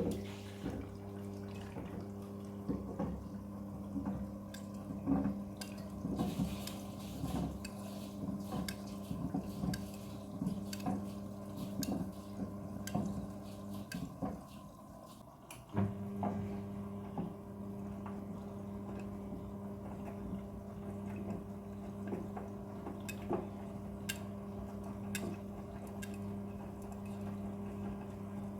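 Front-loading washing machine taking in water for a prewash: a steady low hum with water splashing and dripping into the drum, and small clicks. The hum stops for a couple of seconds about halfway through, then starts again.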